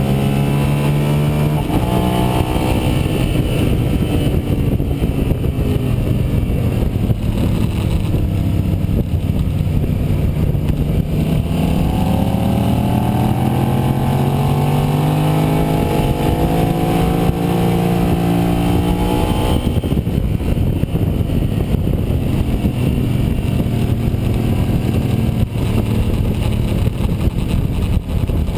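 Sport motorcycle engine heard from its own onboard camera on a racetrack, the revs falling for a corner over the first several seconds, then climbing under acceleration, then dropping off again about two-thirds of the way through. Wind rushes over the microphone throughout.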